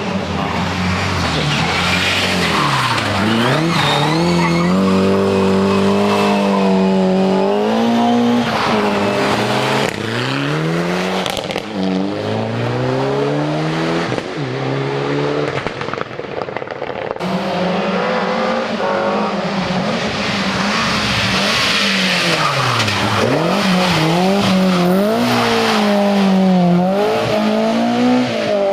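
Rally car engines working hard on a stage. The engine note climbs and drops over and over with gear changes and lifts off the throttle, and dips low and climbs again about three seconds in and again near the end.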